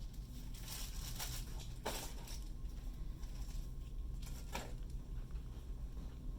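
Room tone of a retail store: a steady low hum, with a few faint rustles about a second in and again near the end.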